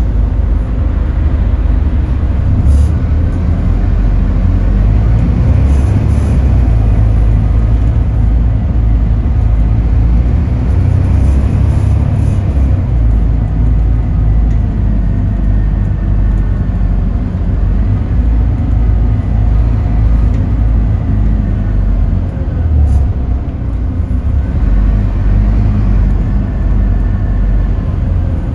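Scania K280UB city bus running under way: a steady, loud low engine rumble, with several rising whines as it accelerates and a few light clicks and rattles.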